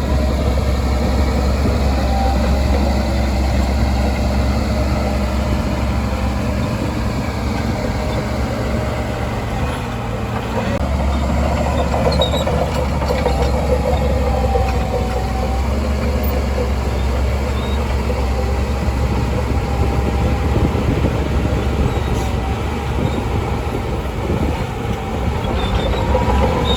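Shantui DH17C2 crawler bulldozer at work: its diesel engine runs with a steady low drone, easing briefly about ten seconds in, with a wavering squeal over it.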